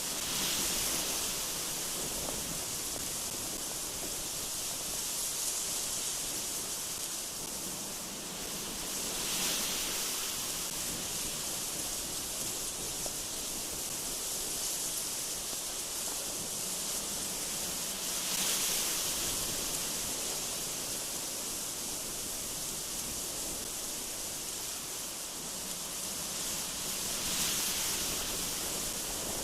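Strong gusty wind blowing through trees: a steady high rush that swells into a gust about every nine seconds.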